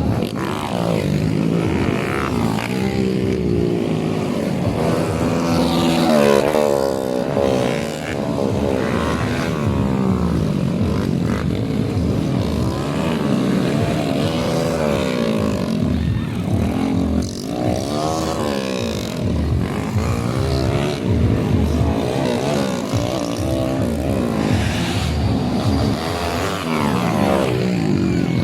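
Several motocross motorcycle engines racing, revving up and down and shifting gears over and over, their pitch rising and falling as they overlap.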